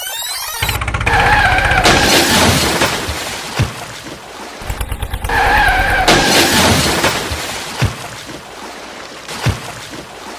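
A vehicle engine running with a low, rhythmic pulse, mixed with a wavering higher tone. A few sharp thumps come at intervals.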